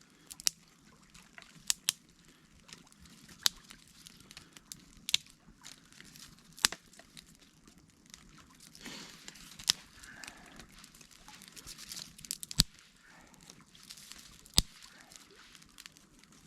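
Newly lit twig-and-birch-bark campfire crackling, with sharp single pops and snaps every second or two as small kindling is fed onto it.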